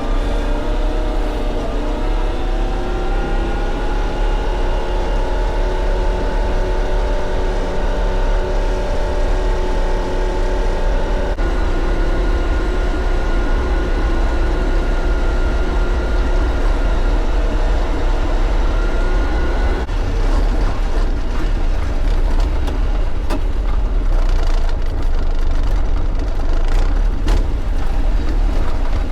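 Diesel tractor engine running steadily under way, its pitch rising early on and shifting again about a third and two-thirds of the way through.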